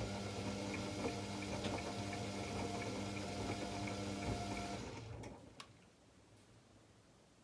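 AEG Lavamat L74810 washing machine moving water, with a steady electric hum under a watery rush; it cuts off about five seconds in, followed by a couple of sharp clicks.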